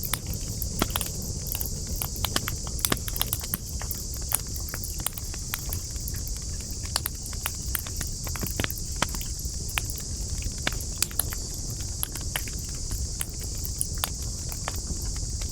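Wood campfire crackling, with frequent irregular sharp pops and snaps over a low steady rumble of the flames. A steady high-pitched hiss runs behind it.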